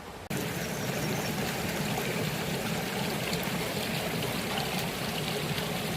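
Mountain stream running steadily over rocks. It comes in abruptly about a third of a second in.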